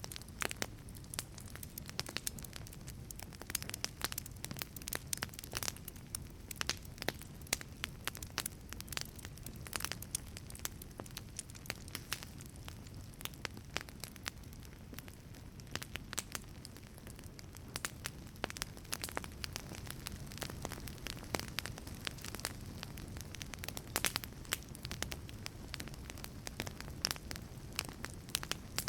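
Wood fire burning in a wood-fired pizza oven: irregular sharp crackles and pops over a steady low rumble of the flames.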